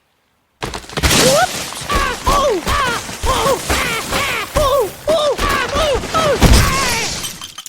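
Cartoon character's high-pitched voice making rapid, repeated rising-and-falling yelps, about two a second, mixed with thuds and crash-like knocks. It starts about half a second in and fades out just before the end.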